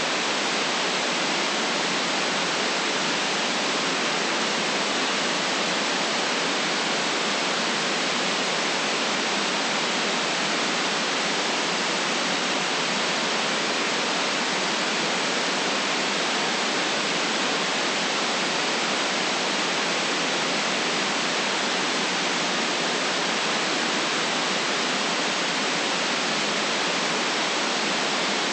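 Steady white noise: an even, unchanging hiss with no individual sounds in it.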